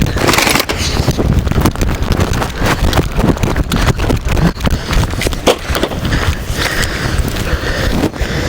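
A vehicle rolling over rough ground, with a continuous low rumble and many irregular knocks and rattles.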